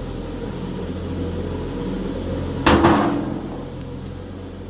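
A steady low hum, then a sharp double metal clunk with a short ring about two and a half seconds in, as parts of the band saw cutting machine are handled during blade fitting.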